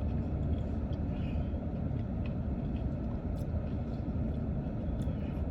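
Steady low rumble of a car heard from inside the cabin, typical of the engine idling, with a few faint clicks over it.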